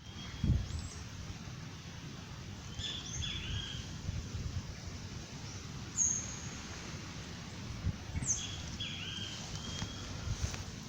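Dawn birdsong: a short chirping song phrase about three seconds in and the same phrase again about eight seconds in, with a brief high whistled note between them, over a steady low outdoor rumble.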